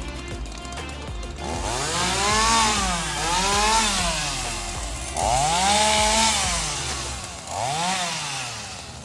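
Two-stroke chainsaw revved up and back down four times, each time the pitch rising, holding briefly, then falling as the throttle is let off. Background music runs underneath.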